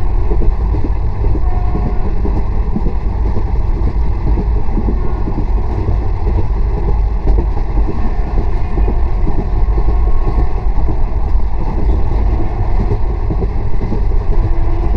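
Passenger train running at speed, heard from an open coach door: a steady rumble of wheels on rail, with wind buffeting the microphone.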